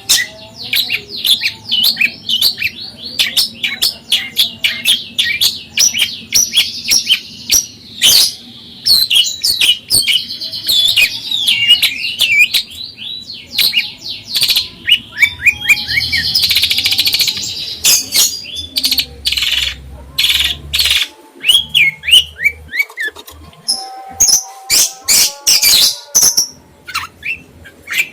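A caged songbird singing a fast, varied, nonstop stream of chirps and trills, mixed with many sharp clicking notes.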